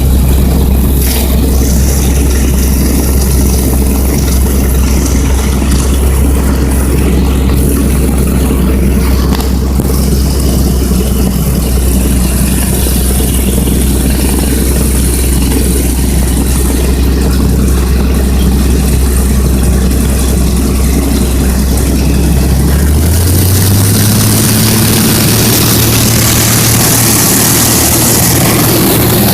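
Small propeller airplane's engine running steadily, heard from inside the cabin. About three-quarters of the way through, its pitch steps up and it gets noisier as the engine speeds up.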